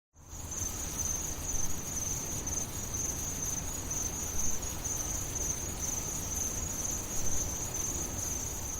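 Crickets chirring steadily in one high, finely pulsing note over a low rumble.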